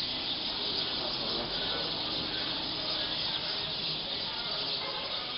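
Large roosting flock of black birds calling all at once, the many calls blending into a steady, continuous high-pitched din.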